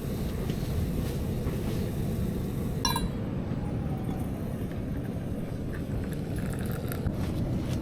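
Steady wind rumbling on the microphone, with a single ringing clink of tableware about three seconds in and a few faint ticks near the end.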